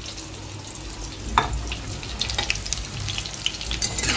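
Besan-coated soya chunks sizzling in hot oil in a kadai, with a few sharp clicks of pieces and the spatula against the pan. The loudest click comes about a second and a half in.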